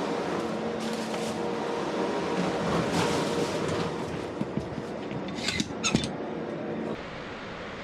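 Delivery van's tote compartment doors being shut: two sharp clacks about five and a half and six seconds in, over a steady mechanical hum that drops off just after.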